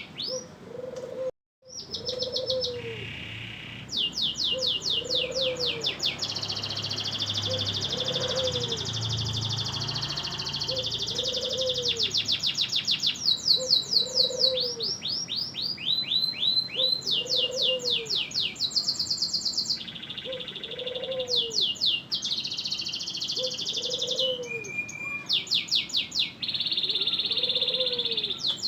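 Domestic canary singing non-stop: fast rolling trills and rapid strings of high repeated notes, switching phrase every second or two, with a brief break about a second and a half in.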